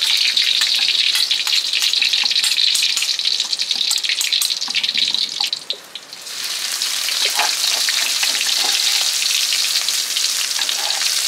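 Garlic and curry paste frying in hot oil in a wok: a steady sizzle with small crackling spatters. It dies down briefly about six seconds in, then picks up again.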